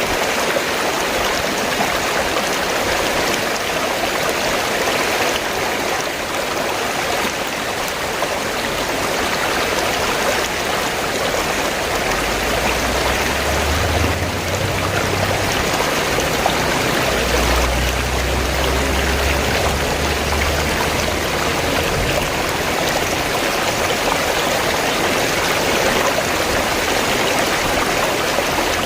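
A river flowing steadily, an even rushing and babbling of water. A low rumble sits underneath it for a stretch from about twelve to twenty-two seconds in.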